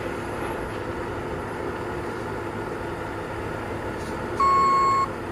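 Tracked skid steer's diesel engine running steadily as the machine climbs onto a trailer. Near the end, one loud electronic beep of just over half a second, typical of the machine's warning or travel alarm.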